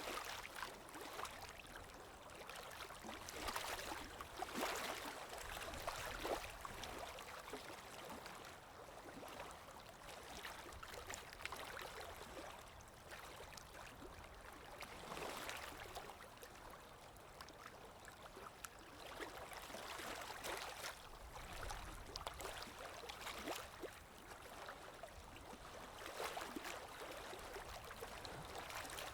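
Water ambience for relaxation, billed as an underwater sound: a continuous watery hiss that swells and eases every few seconds, with small scattered ticks.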